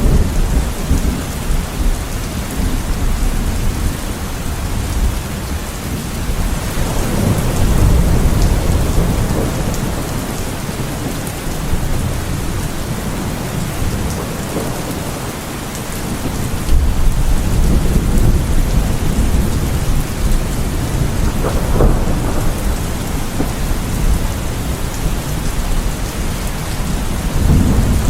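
Heavy rain falling steadily with low rolling thunder that swells and fades several times: about seven seconds in, again from about sixteen seconds, and near the end.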